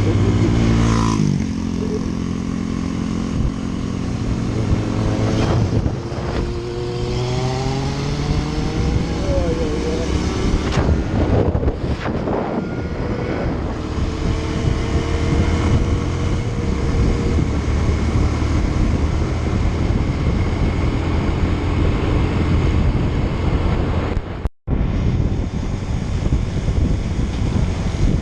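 Motorcycle engines running on the road, rising in pitch several times as they accelerate through the gears, with wind noise over the microphone. The sound cuts out for a moment about 24 seconds in.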